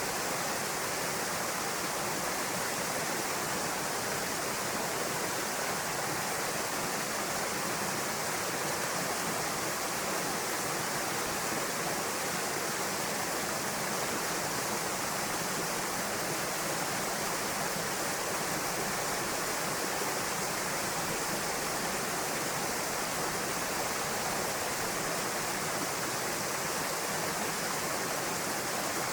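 Waterfall pouring into a pool: a steady, even rush of falling water with no change.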